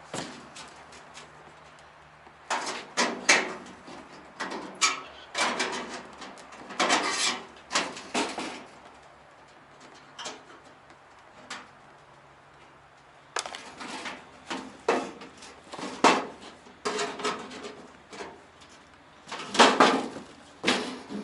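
Scissors cutting and trimming flexible diesel-heater ducting, with the ducting crinkling as it is handled: irregular snips and crackles in two spells, with a quieter pause of a few seconds between.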